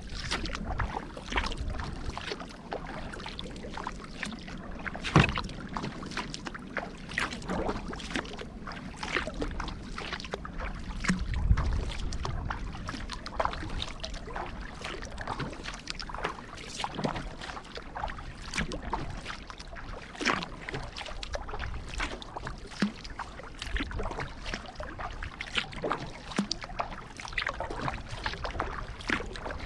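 Kayak paddle strokes dipping into and lifting out of the river, with water dripping and splashing off the blades in an uneven rhythm. A sharp knock comes about five seconds in.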